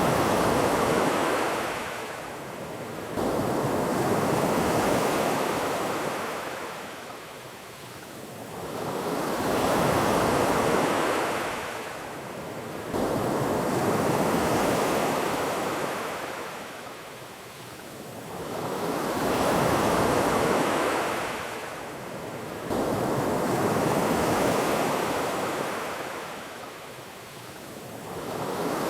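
Ocean waves breaking and washing back, rising and falling in slow swells every five seconds or so.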